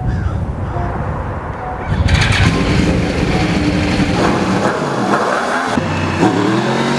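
Motorcycle engine running and being revved, its pitch rising and falling several times in the second half.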